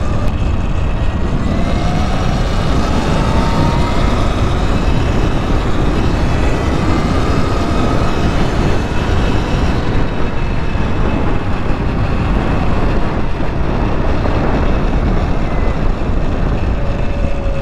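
Wind rushing over the microphone while riding an electric bike, with a faint motor whine gliding up and down in pitch as the speed changes.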